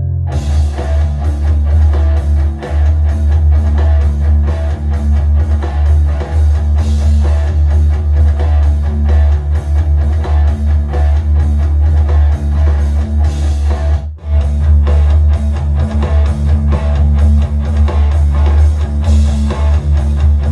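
Rock music with electric guitar, drums and heavy bass, playing loudly from an Anker Soundcore Bluetooth speaker. It starts abruptly just after the opening and drops out for an instant about two-thirds of the way through.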